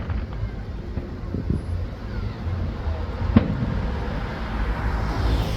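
Steady low rumble of wind and road traffic, with one sharp firework bang about three and a half seconds in.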